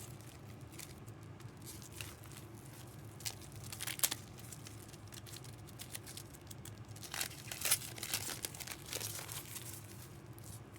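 Trading-card pack wrappers crinkling and tearing as packs are opened, in irregular crackles that bunch up around the middle and near the end, over a faint steady low hum.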